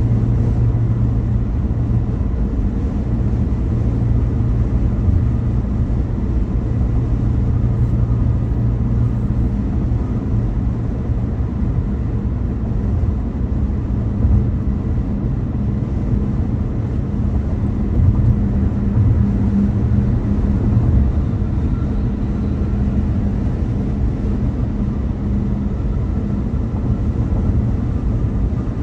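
A car driving along, a steady low drone of engine and tyre noise with no sharp events.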